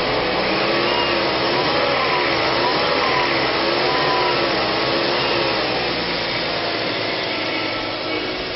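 2005 Ford Escape Hybrid's 2.3-litre four-cylinder engine running: a steady rushing noise with a faint whine that wavers up and down about once a second, fading slightly near the end.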